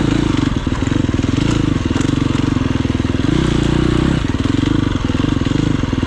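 Single-cylinder dirt bike engine running close by, its revs rising and falling twice as the throttle is worked.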